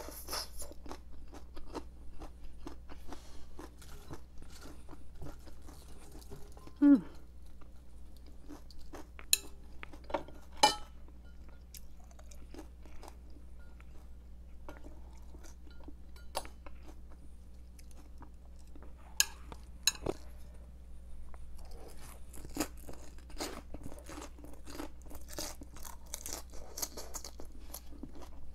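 Close-miked crisp crunching and chewing of raw cabbage leaves, densest in the last few seconds, with a few louder sharp clicks along the way.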